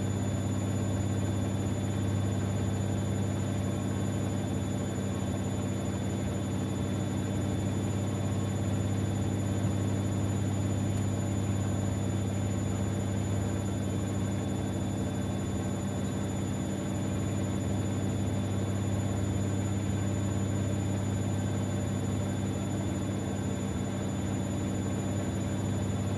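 Siemens Extraklasse XLs 140 A front-loading washing machine running with a steady, even hum, mid-way through a Cottons 60°C stains programme.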